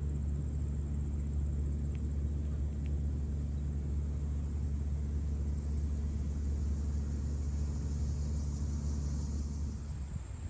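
A steady low rumble with a faint steady high-pitched tone above it, and two light clicks about two and three seconds in; the rumble eases near the end.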